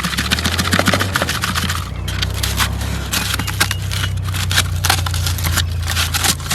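Brittle, dried inside of a birdhouse gourd being broken up and scraped out by hand, a run of quick crackling scrapes, over a steady low hum.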